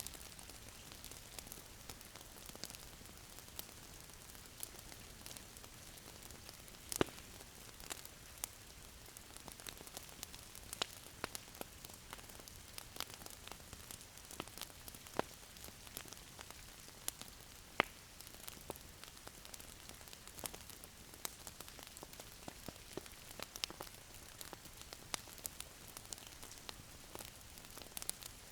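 Wood fire crackling in a fireplace: scattered sharp pops and clicks at irregular intervals over a soft steady hiss, with a few louder pops.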